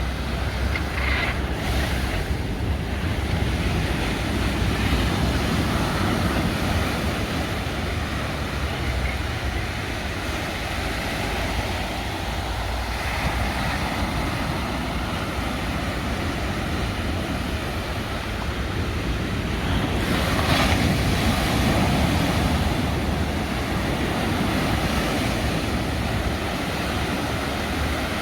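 Sea waves washing on the shore, a continuous surf wash that swells louder about two-thirds of the way through, with wind rumbling on the microphone.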